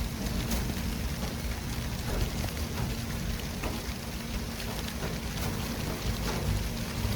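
City street traffic ambience: a steady wash of road noise over a low rumble, with a few faint ticks.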